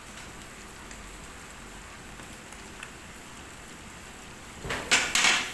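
Chicken frying in a large cooking pot, a steady sizzle, with a brief louder noisy burst near the end.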